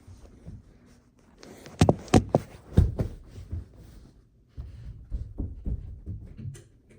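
Three loud sharp knocks in quick succession, then a run of quieter low thumps and bumps, as of something being handled.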